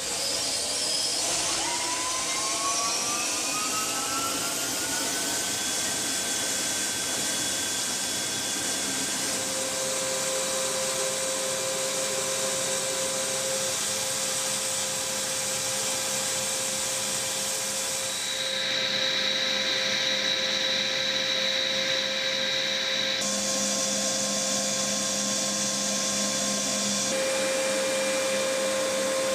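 Apache helicopter's twin turboshaft engines whining, the pitch rising over the first few seconds as they spool up and then holding steady over a loud rushing turbine noise. The tone shifts abruptly a few times later on.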